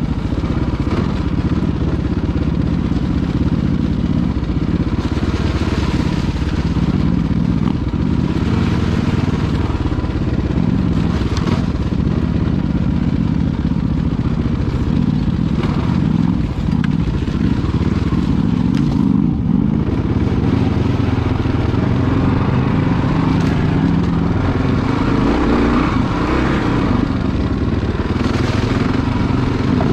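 Adventure motorcycle engine running steadily while riding off-road, with rushes of noise at several points.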